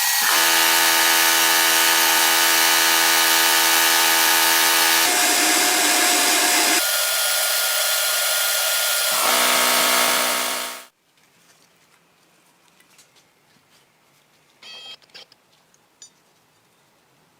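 Glass bead blasting in a blast cabinet: a loud, steady rush of compressed air and media with a few steady tones in it that change pitch several times, then cutting off suddenly about eleven seconds in. Only a few faint clicks follow.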